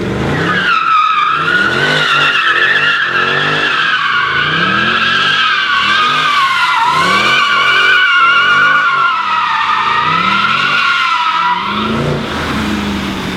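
A Mercedes-AMG car is doing a burnout or donut. Its tyres give a continuous, wavering squeal while the engine revs rise and fall about once a second. Near the end the squeal stops and the engine runs on at a steadier note.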